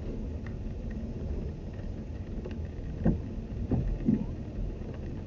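Steady low vehicle rumble heard from inside a car, with a few short knocks about three to four seconds in.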